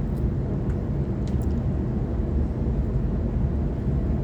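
Steady low rumble of a Waratah electric multiple-unit train creeping slowly into the terminus platform, with a few faint clicks about a second in.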